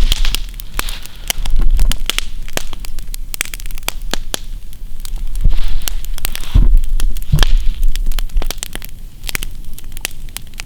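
Wood campfire burning with growing flames, crackling with frequent sharp pops and snaps. There are low rumbles around two seconds in and again past six seconds.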